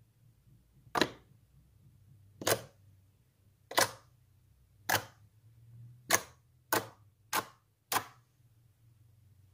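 Slime being pressed and folded by hand, giving off eight sharp air-bubble pops, spaced more closely near the end.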